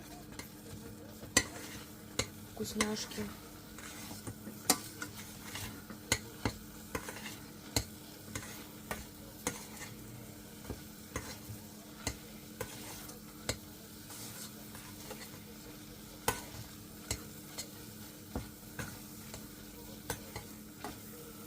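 Choux pastry dough being stirred and beaten in a small saucepan over the heat, the utensil knocking and scraping against the pan in irregular clicks, with a faint sizzle from the dough cooking on the pan bottom. The dough is being cooked until it pulls away from the sides of the pan.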